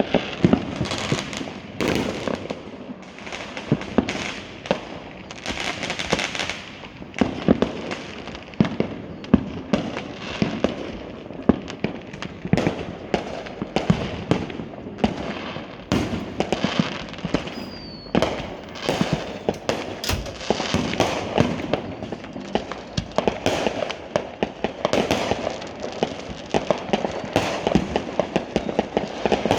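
Many fireworks and firecrackers going off without pause: a dense run of sharp bangs and pops with crackling bursts, and a brief falling whistle about eighteen seconds in.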